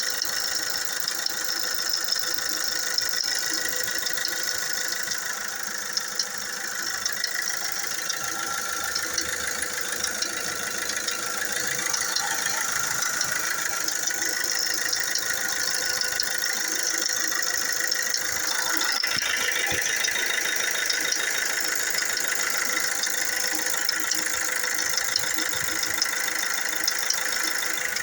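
Fiat Doblò Multijet diesel engine idling steadily with a fast, even rattle: the timing chain is noisy, which the owner takes for a bad chain.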